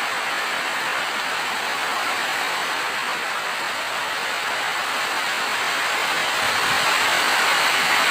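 Steady rain falling, an even hiss without separate drops standing out, growing a little louder over the last couple of seconds.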